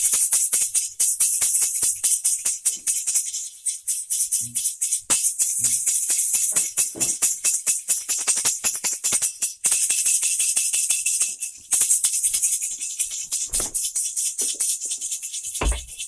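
A loud, dense rattling hiss made of many rapid clicks, shaker-like, with two dull thumps near the end.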